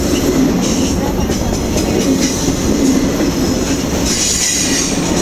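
Freight train of autorack cars rolling past at close range: a steady loud rumble of steel wheels on rail, with a high wheel squeal coming and going, strongest about four seconds in.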